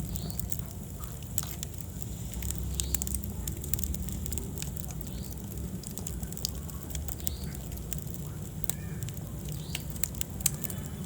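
Wood fire burning in a fireplace: a steady low rumble of flame with many irregular crackles and sharp pops of burning wood, a louder pop near the end.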